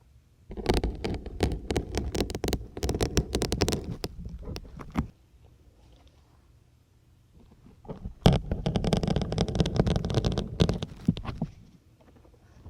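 Syringes being pushed into a grey, firm foam sponge close to the microphone, making a crunchy, crackling squeak. It comes in two bouts of about four seconds each, with a pause between.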